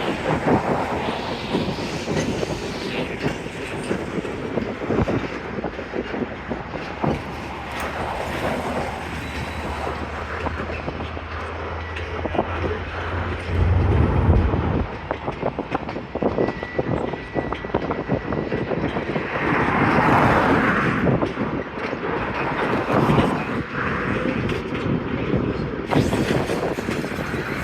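Freight train cars rolling on the rails with frequent clicks and clanks of the wheels and couplers. A low steady hum builds and then cuts off about halfway through.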